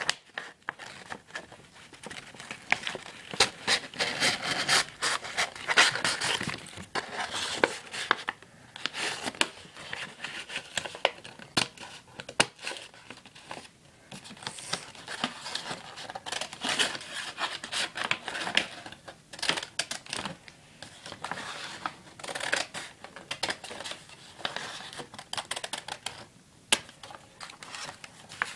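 Paper rustling and crinkling as it is handled, folded and cut with scissors, with many irregular scrapes and clicks.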